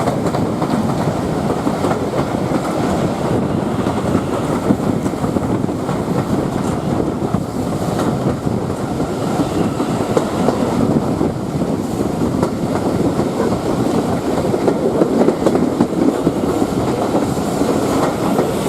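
Railway carriage rolling along on board a steam-hauled train: a steady rumble of wheels on the rails with clickety-clack over the track joints.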